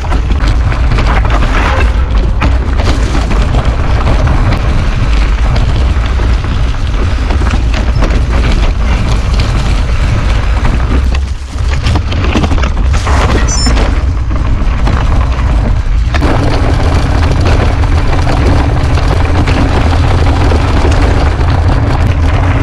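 Wind buffeting an action camera's microphone during a mountain bike ride, a loud steady low rumble with riding noise over it. About two-thirds of the way in, a steady low hum joins it.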